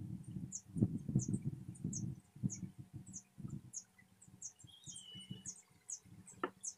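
A small bird chirping over and over, short high notes about two a second, with one longer whistled note about five seconds in. Under it, faint low bumping and rustling from handling, and a sharp click near the end.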